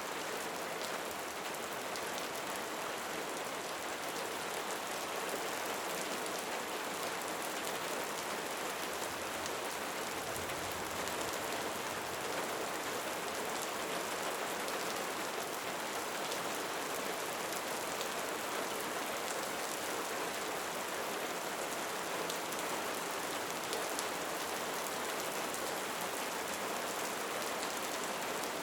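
Steady rain falling, countless drops blending into an even, unbroken wash of sound.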